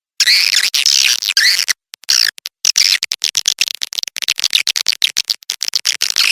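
Recorded swiftlet calls: loud chittering twitters, then a rapid run of short clicking chirps through the middle, broken by sudden silent gaps where the track is cut.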